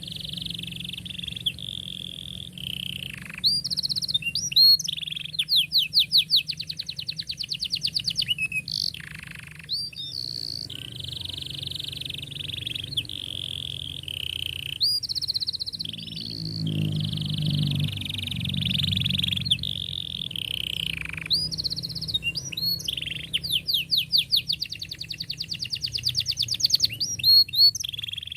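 Domestic canary singing a long, unbroken song: sustained rolling trills at a steady pitch, broken by fast series of sharp chirps. A low hum runs underneath and swells briefly past the middle.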